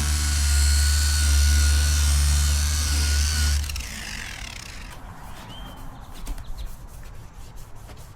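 Handheld rotary polisher running steadily with a low hum and a steady whine. It is switched off about three and a half seconds in and winds down, followed by soft rubbing and light clicks.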